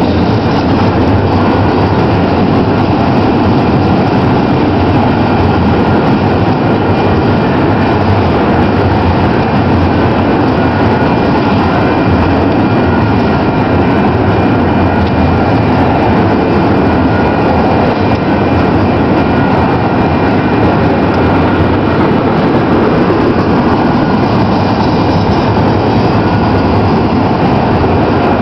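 Union Pacific double-stack container train's loaded well cars rolling past close by: a steady, loud rolling noise of steel wheels on rail, with a few faint steady high tones.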